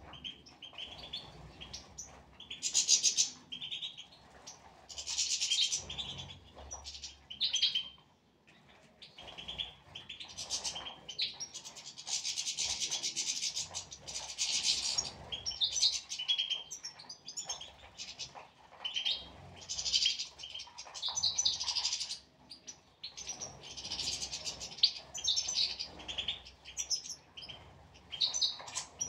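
European goldfinches twittering and chirping in quick bursts of song, one phrase after another with short pauses.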